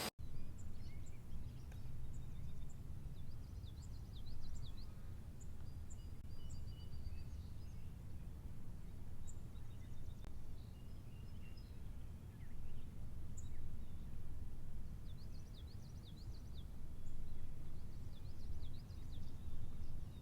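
Outdoor nature ambience: a steady low rumble with small songbirds chirping and trilling at intervals. There is a momentary dropout just after the start, where the track cuts in from a hissy section.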